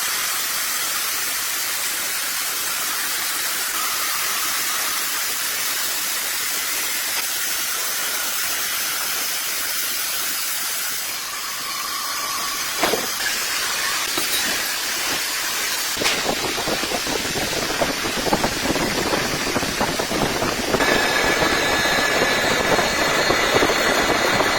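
Sawmill machinery cutting wood. A steady high hiss gives way about halfway to rougher mechanical running with scattered crackles, and a steady whine joins in near the end.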